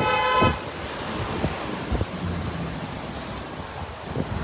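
Gusty wind buffeting the microphone, a low rumbling rush. A car horn carries over from just before and cuts off about half a second in.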